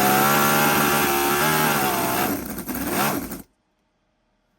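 Cison scale-model V8 engine running steadily, its pitch wavering a little, until it cuts off suddenly near the end.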